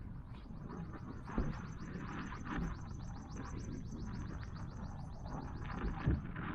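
A small songbird singing one long, fast, high trill of even repeated notes, about six seconds long, over a low outdoor rumble. Two dull thumps come through, one early and one near the end.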